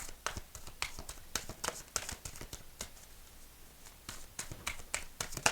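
Oracle cards being shuffled and handled on a table: irregular light taps and flicks, the sharpest one near the end.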